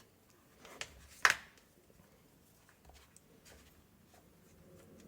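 A few faint clicks and taps of small plastic and metal trimmer parts being handled, with one sharper click about a second in.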